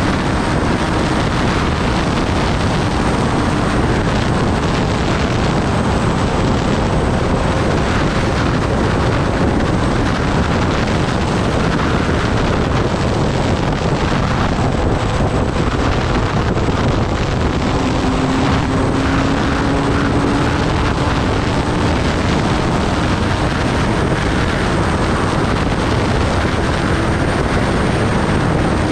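Kawasaki Ninja ZX-10R motorcycle under way: a steady rush of wind over the microphone, with the inline-four engine's drone underneath drifting slowly in pitch.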